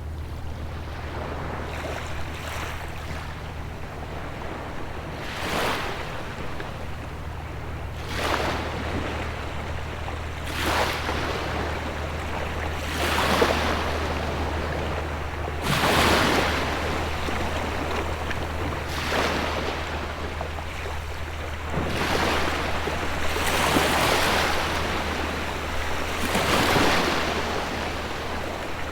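Gentle ocean waves breaking and washing up the shore, one wash every two to three seconds, somewhat louder from about halfway through. A steady low hum runs underneath.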